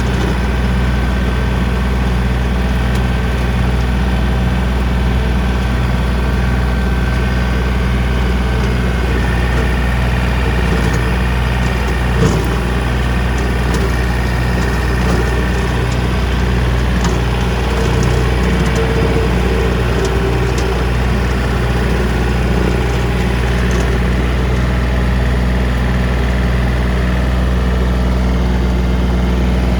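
John Deere 3025D compact tractor's three-cylinder diesel engine running steadily at a constant speed, with one brief knock about twelve seconds in.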